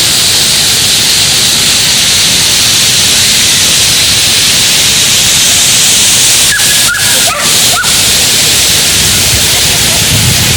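Waterfall cascades rushing in a loud, steady wash of water noise. A few short high-pitched yips or squeaks and clicks cut through it about two-thirds of the way in.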